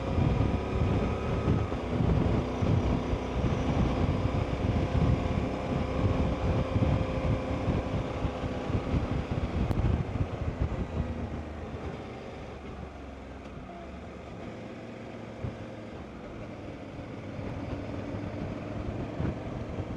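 Motorcycle engine running steadily while riding, under wind noise on the microphone; it falls quieter about twelve seconds in and builds a little again near the end.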